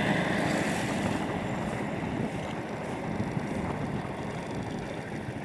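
Sandstorm wind rushing and buffeting the microphone, easing slowly. An engine dies away in the first moment.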